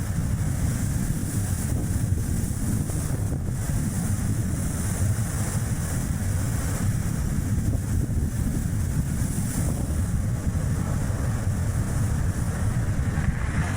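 Strong wind buffeting the microphone over the steady rumble of tyres on the road as a Chevrolet Spark drives along, a continuous low noise with no distinct events.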